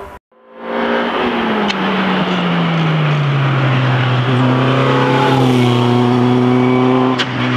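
Formula Opel Lotus single-seater racing car engine running. Its pitch falls over about two seconds and then holds steady.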